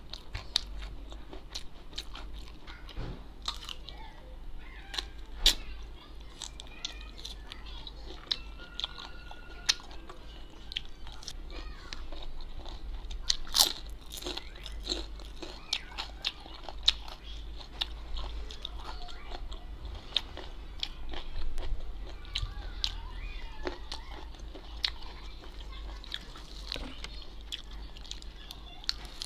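A person chewing and biting food close to the microphone, with many irregular sharp crunches.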